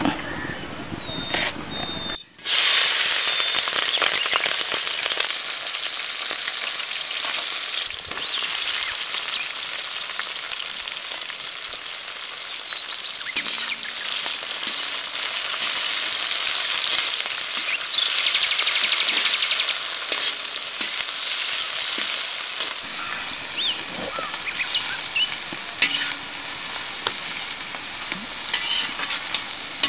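Chopped onions and chillies sizzling in hot oil in a wide iron kadai, stirred and scraped with a metal skimmer. The sizzle starts suddenly about two seconds in and then keeps up steadily, with occasional scrapes and clicks of the skimmer against the pan.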